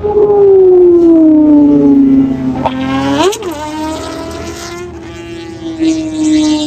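Kawasaki ZX10R inline-four engine through an SC Project exhaust, running at high revs. Its pitch sinks slowly, rises and falls back in a quick throttle blip a little over three seconds in, then holds steady.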